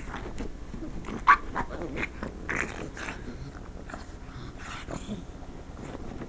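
Pug growling and grumbling in short, irregular bursts, with one sharper, louder cry about a second in. The noises are her reaction to the sound of someone scratching the couch.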